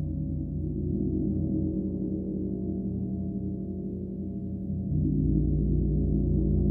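Gong ringing in a sustained low drone, its lowest tones pulsing steadily; about five seconds in the sound swells louder.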